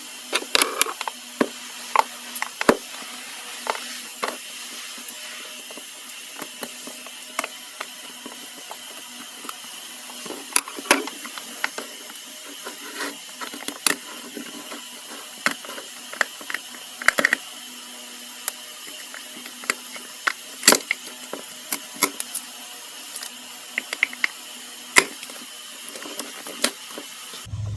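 Irregular taps, clicks and crinkly handling noises as fidget toys and their packaging are handled close to the microphone, over a steady background hiss.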